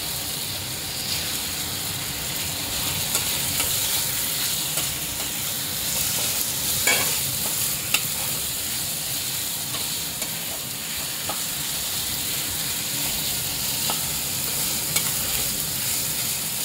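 Marinated chicken pieces sizzling in hot oil in a wok, stirred and turned with a flat metal spatula, with a few sharp taps and scrapes of the spatula on the pan.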